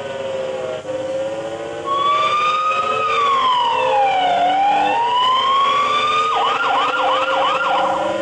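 Electronic fire-engine siren sound effect. About two seconds in it starts a slow wail that falls and then rises again, and near the end it switches to quick repeated yelp sweeps, over a steady droning tone.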